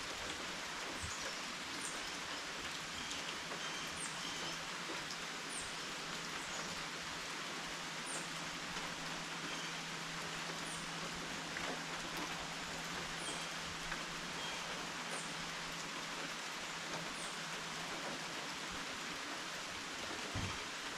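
Steady rain falling, an even hiss with no let-up. A faint high chirp repeats about once a second over it.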